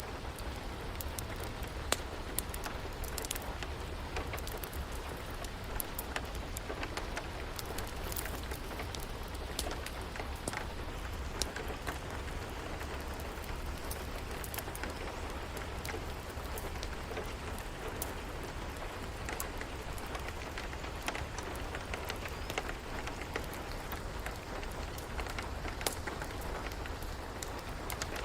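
Steady rain falling, mixed with scattered sharp pops of a crackling wood fire, over a low steady rumble.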